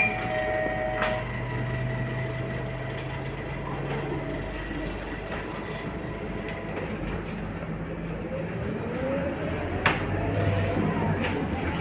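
Scania K230UB Euro V bus running, with a steady low drone. A steady high tone stops about a second in. From about two-thirds of the way through, the engine and driveline pitch rises as the bus speeds up, with a sharp click near the end.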